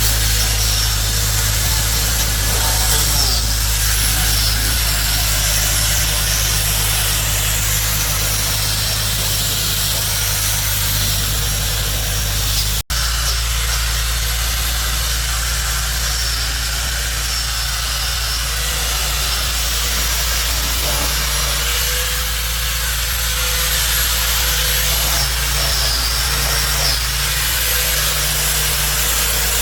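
Steady machine noise, a low hum with hiss over it, broken by an abrupt cut about 13 seconds in, after which the hum changes pitch.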